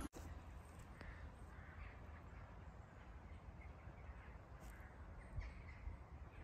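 Quiet outdoor park ambience with faint, scattered calls of distant birds.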